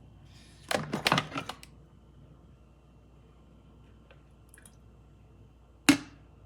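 Coffee carafe being handled: a quick rattle of clicks and knocks about a second in, then a single sharp knock near the end.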